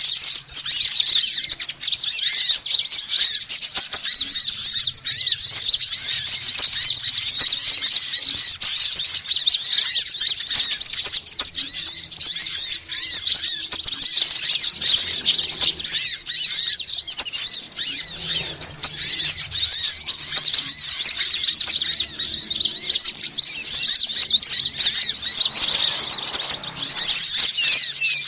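Bird-trapping lure recording: a dense, continuous chatter of many small songbirds, rapid high chirps and trills without a break, made to sound like an agitated flock.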